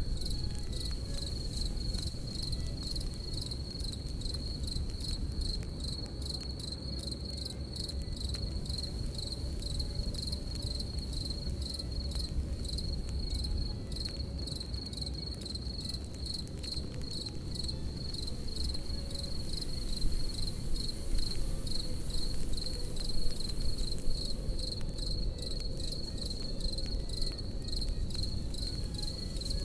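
Crickets chirping in a steady, fast pulsing trill over a crackling campfire. The fire pops now and then, with a few louder pops about two-thirds of the way in.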